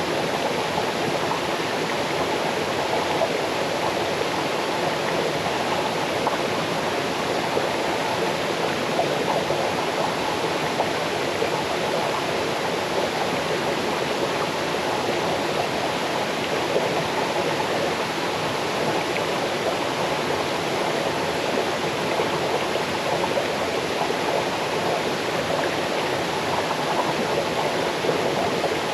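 Small waterfall cascading over stones into a forest stream: a steady rushing, babbling flow of water.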